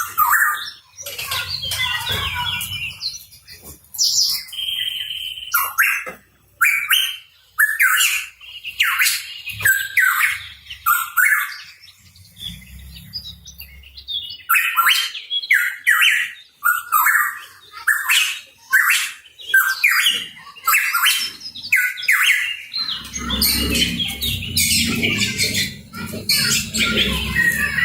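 Pitohui calling: a run of short, harsh chirps repeated one or two a second, with a brief lull near the middle. A low rumble sits under the calls for the last few seconds.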